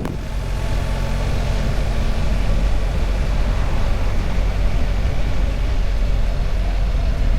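Motorcycle engine running at a steady speed while riding, under a loud rush of wind and road noise.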